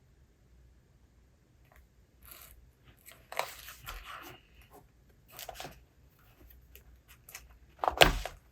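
Book pages and paper rustling in a string of short handling sounds, the loudest near the end with a soft thump.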